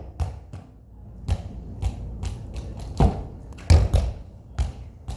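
A football being kicked hard against a wall: several sharp thuds of foot on ball and ball off the wall, irregularly spaced, the loudest about three and four seconds in.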